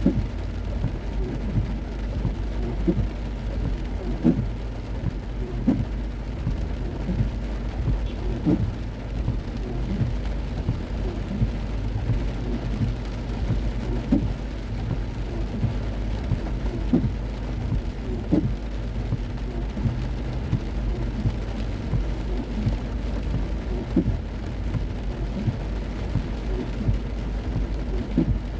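Heavy rain drumming on a moving car, with irregular drops tapping on the body and glass, over a steady low rumble of the car running on the road.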